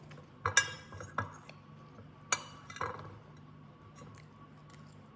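A serving utensil clinking and clattering against dishes and containers while pasta is portioned out: a few sharp knocks in the first three seconds, then quiet.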